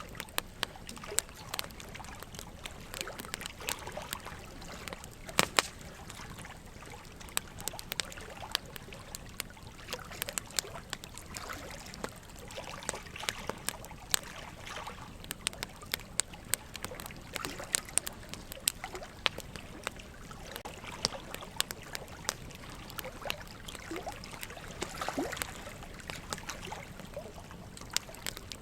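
Burning logs crackling, with frequent irregular sharp pops, the loudest about five and a half seconds in, over a steady background of trickling water.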